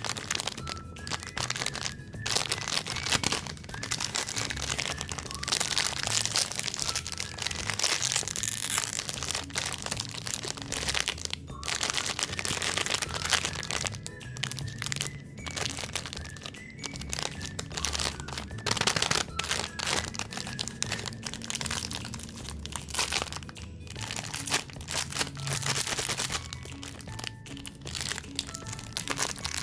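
Packaged cake and cookie wrappers crinkling and crackling as they are unwrapped, with short pauses, over background music.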